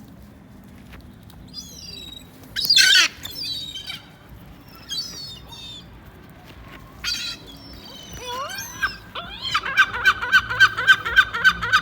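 Gulls calling: scattered cries, a loud one about three seconds in, then from about nine and a half seconds a fast run of repeated calls, several a second.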